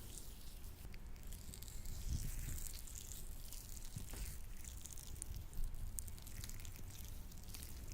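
Latex-gloved hands working sticky lotion, making soft, irregular wet squishing and crackling sounds.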